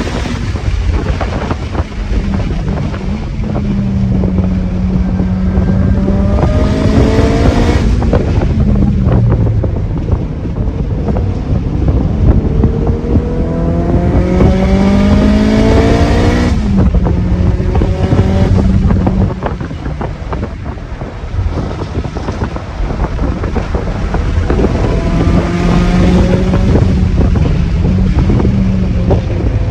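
Car engine pulling hard under acceleration, its pitch climbing steadily and then dropping at gear changes, three times, over a steady rush of wind and road noise.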